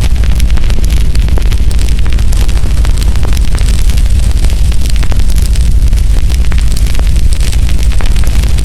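Firewood burning with constant crackling: many sharp small pops and snaps scattered over a steady low rumble.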